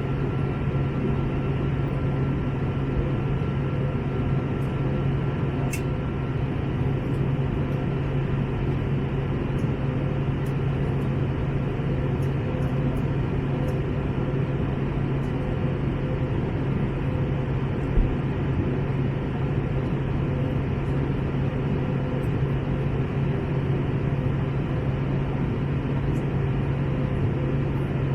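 Steady cabin noise of an Airbus A321neo (A321-271NX, Pratt & Whitney geared turbofans) in flight: an even rush of engines and airflow with a strong low drone. A few faint ticks sound over it.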